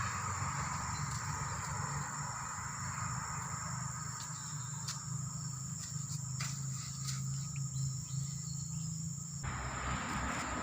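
Insects, likely crickets, droning steadily in a high continuous tone with a few faint clicks, over a low steady hum. The sound changes abruptly near the end.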